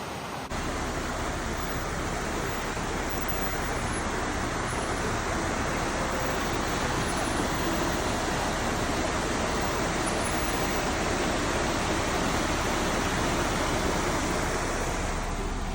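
Steady rushing noise that starts abruptly about half a second in and holds even throughout.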